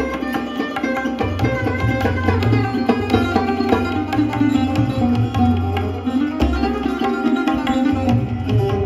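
Sarod played with tabla accompaniment: plucked, ringing sarod notes over tabla strokes, with low bass-drum tones that sound again every second or two.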